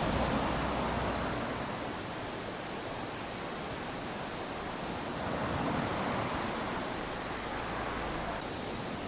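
Small waves lapping onto a sandy beach: a soft wash of surf that swells and ebbs, building near the start and again about halfway through.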